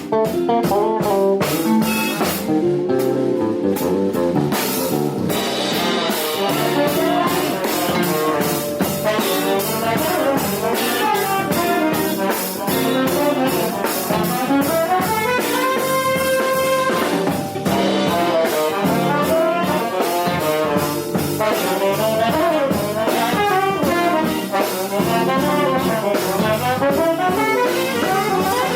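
Jazz band playing live: a trombone carries the melody over drum kit with steady cymbal, bass and piano. Just past the middle one note is held for about a second and a half.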